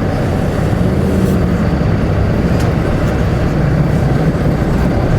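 Semi-truck's diesel engine running, a steady low drone with no sudden events.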